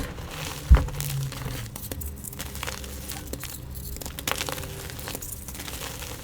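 Gym chalk being crushed and crumbled: a run of crisp crackling with one heavy knock just under a second in.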